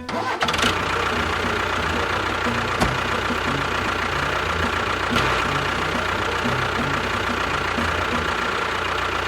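Small motor of a DIY mini construction vehicle running steadily, with a constant whine and an uneven low knocking. It starts suddenly, and two sharp clicks come about three and five seconds in.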